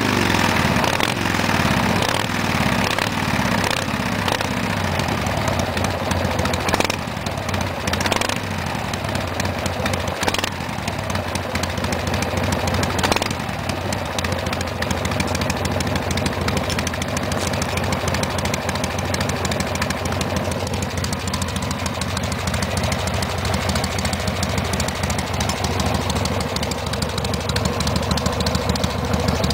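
An engine running steadily. Its pitch falls over the first few seconds, then holds, with a few brief knocks along the way.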